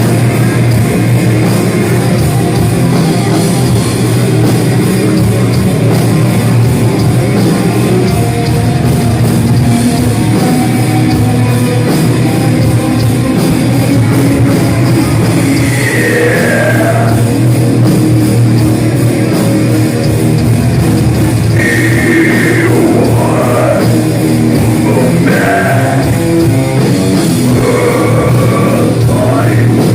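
A heavy metal band playing loud and dense, with guitar and drum kit, and a few sliding high notes in the middle and near the end.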